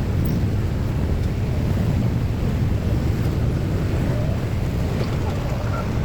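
Steady low rumble of motor vehicles, even and unbroken, with no distinct knocks or horns.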